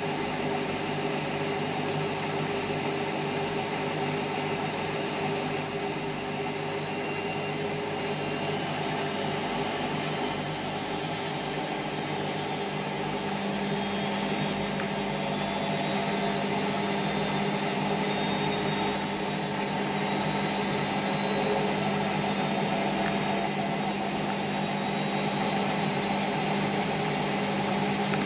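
A steady, dense whirring drone with several held tones. A low hum joins about halfway through, and a high tone slowly rises.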